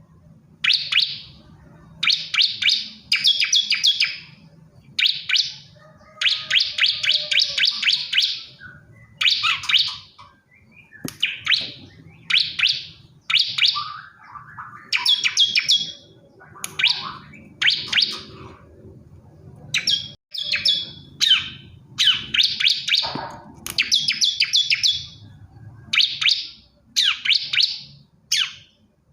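Male ciblek kristal prinia singing: a long series of short, rapid, high-pitched trilled chirping phrases, each under a second, separated by brief pauses.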